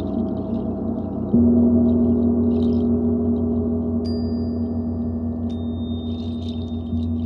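Gong played in a sound-healing session: a deep, sustained wash of overlapping low tones with a slow pulsing shimmer, freshly struck about a second and a half in so the level jumps and then slowly dies away. Thin high ringing tones join near the middle.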